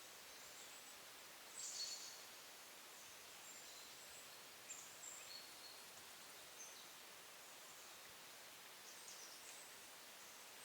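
Faint, high-pitched short calls of small woodland songbirds, coming in a few scattered bursts (the loudest about two seconds in) over a steady quiet background hiss.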